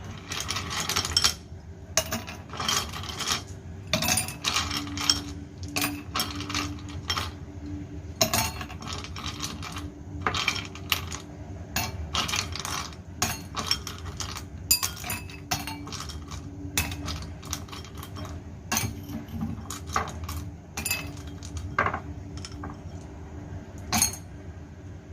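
Irregular clinks and taps of tableware or glassware being handled, many sharp short strikes, over a faint steady hum.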